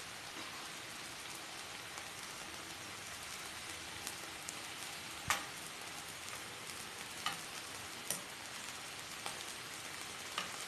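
Pork belly and pork sausages sizzling in a nonstick pan: a steady frying hiss with a handful of sharp clicks or pops scattered through it, the loudest about five seconds in.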